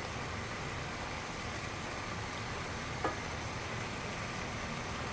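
Minced chicken with shallots, garlic and Thai red chili sizzling steadily as it is stir-fried in a hot pan, with one short knock about three seconds in.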